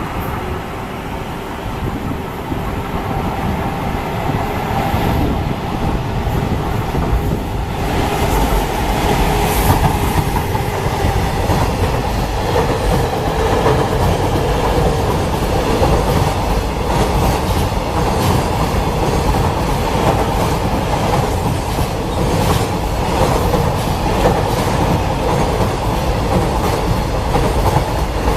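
Freight train of container wagons behind a JR Freight EF200 electric locomotive passing, its wheels clattering over the rail joints. The sound grows louder about eight seconds in and continues as a steady run of wheel clicks.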